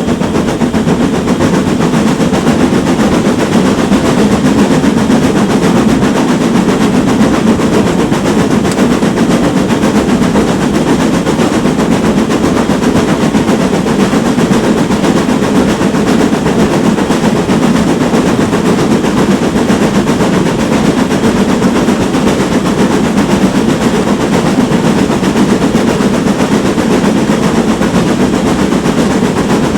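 GWR Manor-class steam locomotive working hard, its exhaust barking in a continuous run of beats over the rumble of the train, loud and steady.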